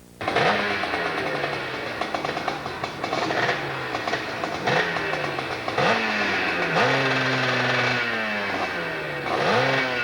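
Motorcycle engine revving hard again and again, the pitch jumping up and sagging back each time, with one stretch held high for about a second past the middle.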